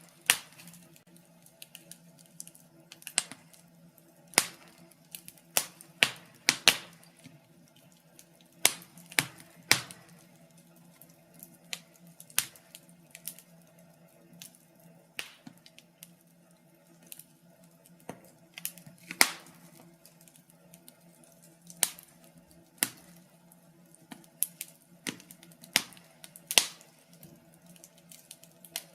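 Wood fire crackling in a fireplace: irregular sharp pops and snaps, a few louder ones, over a faint steady low hum.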